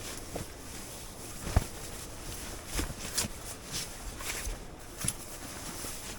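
Camping gear being handled and set down: scattered rustles and knocks, with one louder thump about a second and a half in.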